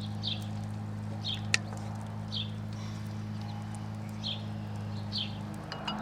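Ash-wood fire crackling, with several sharp pops, the loudest about a second and a half in. Behind it are a steady low hum and a short high chirp that repeats about once a second.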